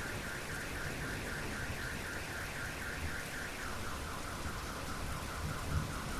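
Steady rain falling, with an electronic car alarm sounding through it: a fast warbling tone pulsing about six times a second, which about three and a half seconds in switches to a lower, falling chirp.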